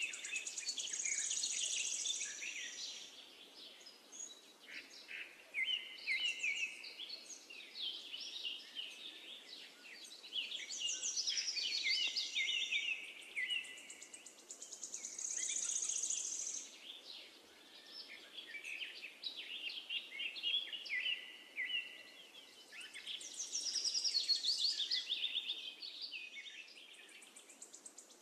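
Songbirds chirping and trilling in repeated phrases that swell and fade every several seconds: a birdsong ambience.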